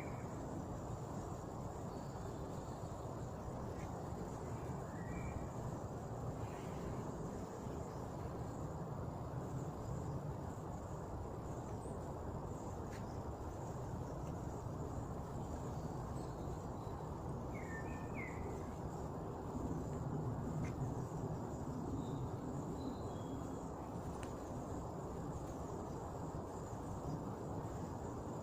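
Summer forest ambience: a steady low rushing noise with a thin, continuous high buzz over it, and a few short bird chirps scattered through, one a little over halfway in.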